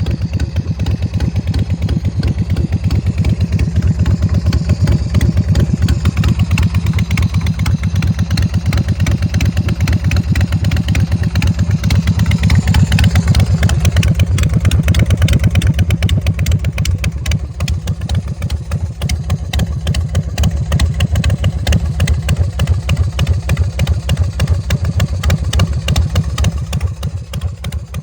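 Big Dog motorcycle's S&S 107 cubic-inch V-twin engine running at idle, with a steady, even pulse. It swells a little louder partway through, then settles back down for the last third.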